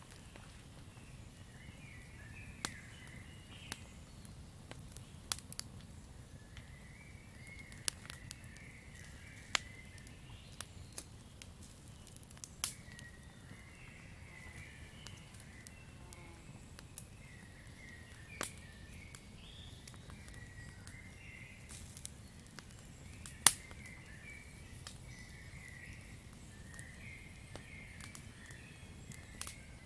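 Campfire crackling: irregular sharp pops and snaps of burning wood over a low steady rumble, the loudest pop about two-thirds of the way through. Faint chirping of night-forest ambience runs in the background.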